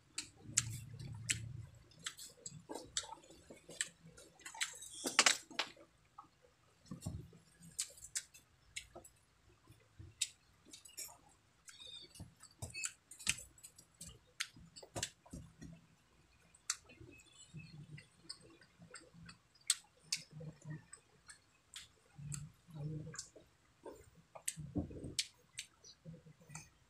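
Close-miked chewing with wet mouth clicks and smacks as someone eats soft fish and rice by hand, irregular and dense all through.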